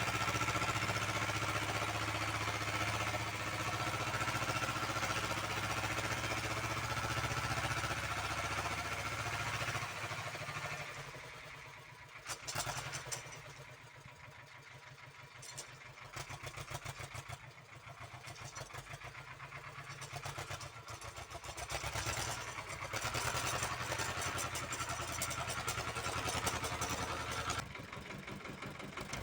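Uralets walk-behind tractor's engine running steadily at working speed, then throttled back about ten seconds in to a slow idle with separate firing beats, and opened up to working speed again later.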